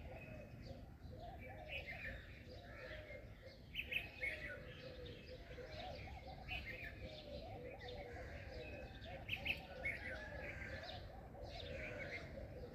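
Several birds chirping and calling together, with short bright chirps standing out about four and nine and a half seconds in, over a steady lower warbling and a faint background hum.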